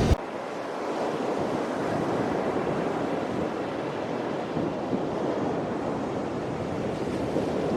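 Steady wash of ocean surf.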